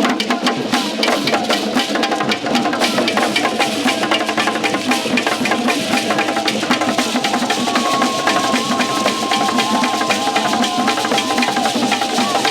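Festival drumming: dense, fast percussion of drums with sharp, wood-block-like strikes. A long held higher tone comes in about eight seconds in.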